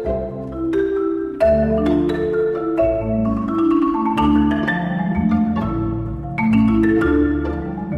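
A marimba played with mallets: a continuous flowing passage of quick struck notes over ringing low notes.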